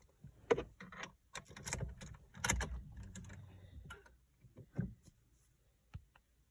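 A string of irregular clicks and knocks, the loudest about half a second and two and a half seconds in, with a brief low rumble between; no engine is running yet.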